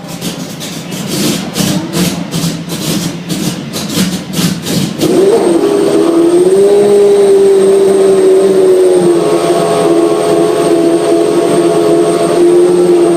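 Honda RA121E 3.5-litre 60° V12 of a McLaren-Honda MP4/6 Formula 1 car being started: for about five seconds it is spun over with a quick uneven pulsing, then it fires and settles into a loud, steady idle.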